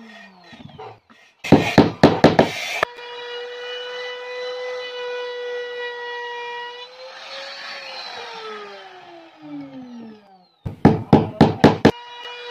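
A power tool's motor running with a steady whine, then winding down with a falling pitch. Two quick runs of five or six loud, sharp strokes or cuts come before and after it.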